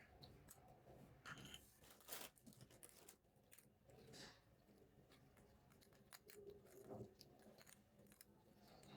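Faint, scattered clicks, taps and crinkles from small plastic toy pieces and their packaging being handled.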